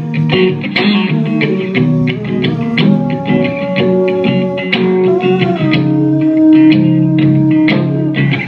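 A live band playing an instrumental passage of a song, with guitars to the fore and regular sharp percussive hits and no singing.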